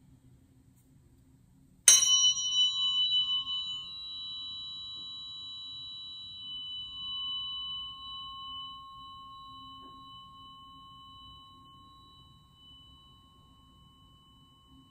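Tuning fork struck once, about two seconds in, with a sharp metallic click. It rings on in several high, clear tones that waver at first and then fade slowly.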